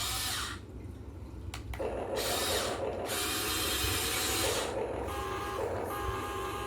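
Huina 1580 all-metal RC excavator's small electric motors and metal gearboxes whirring in stretches, the sound changing every second or so as functions start and stop, with a steady whine joining about five seconds in.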